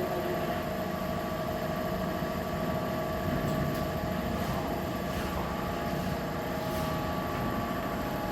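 Steady mechanical hum of a running motor, with a few faint light ticks over it.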